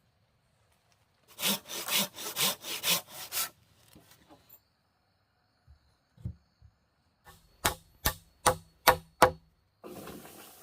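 Wood being cut with a hand saw: a run of about seven quick strokes, a pause, then about six more strokes at the same pace. A steady hiss begins near the end.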